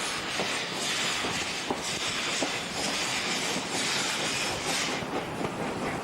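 Train running on the rails: a steady rushing noise that swells and eases about once a second, with scattered sharp wheel clicks.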